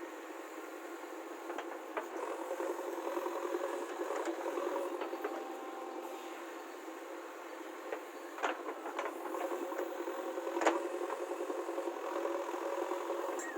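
JCB 3DX backhoe loader's diesel engine running steadily, with a few sharp metallic knocks from the working machine.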